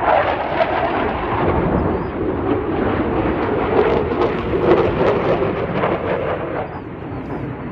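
Distant fighter-jet roar from USAF Thunderbirds F-16s: a deep, rumbling, crackling jet-engine noise that slowly dies away near the end.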